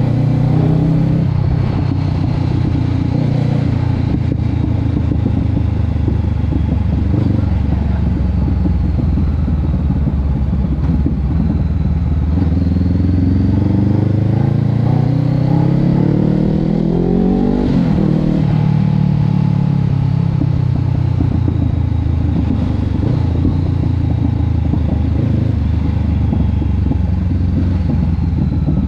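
Honda CB500X parallel-twin engine running through an aftermarket Termignoni exhaust. It idles steadily, then is revved up smoothly for several seconds around the middle and falls back to idle.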